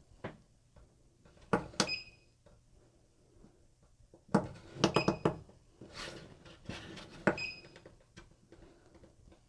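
Clicks and knocks of switches and fittings being handled, in three clusters, three of them followed by a brief high ringing tone.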